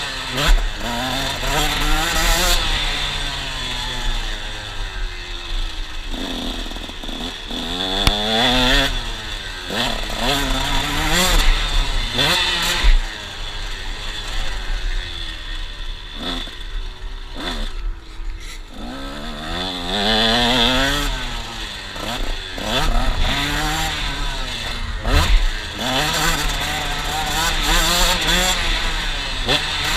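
KTM 125 SX two-stroke motocross engine revving up and dropping back again and again as the rider works the throttle through the gears, easing off for a few seconds a little past halfway. A few sharp knocks stand out in the engine noise.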